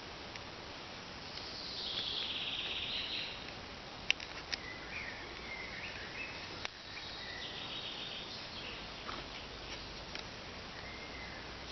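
Woodland birds chirping and singing over faint insect sounds, with a denser trill about two seconds in. A few sharp clicks near the middle.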